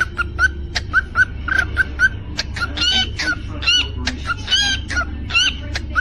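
Cockatiel singing: a quick run of short repeated chirps, about three a second, broken about halfway through by a few higher, rising whistled notes, with sharp clicks between the notes.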